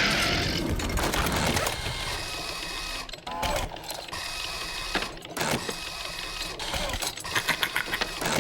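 Busy mechanical clattering with many clicks, and a burst of rapid clicks near the end.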